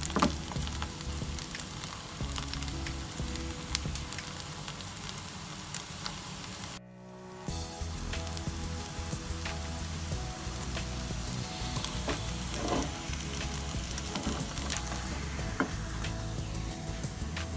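Flour-coated tempeh patty frying in shallow oil in a nonstick pan: a steady sizzle with many fine crackles and pops, with a brief dip about seven seconds in.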